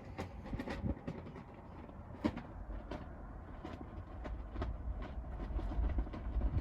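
Wind buffeting the microphone, a low rumble that grows stronger near the end, with scattered light clicks and knocks, the loudest a little over two seconds in.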